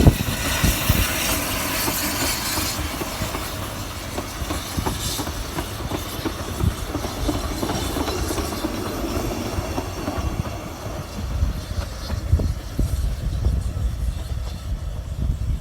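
Narrow-gauge train running along the track, its wheels clattering over the rail joints, with a steady rushing noise and a hiss in the first few seconds.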